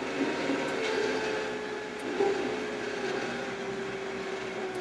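Kioti RX7320 tractor's diesel engine running steadily while plowing snow, a drone with a whining tone that wavers slightly in pitch. A couple of faint ticks sound over it.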